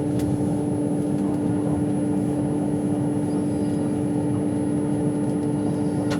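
Steady interior running noise of an Avanti West Coast train at speed: a constant low hum with a dense rumble under it.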